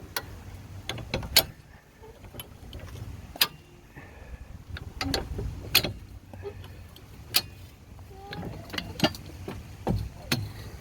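Hi-lift jack being lowered a notch at a time: sharp metallic clicks and clanks of its climbing pins and handle, about ten at uneven spacing. Wind rumbles on the microphone underneath.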